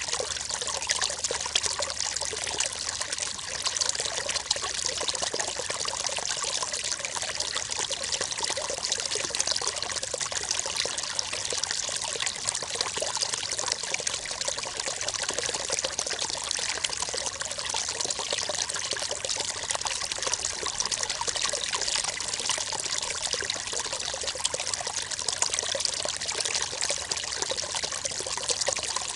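River water running over stones, a steady splashing and trickling rush with no let-up.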